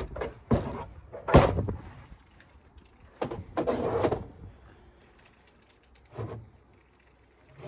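A few separate sharp knocks and clunks, the loudest about a second and a half in, then a longer rattling clatter around three to four seconds and a last dull thump near six seconds.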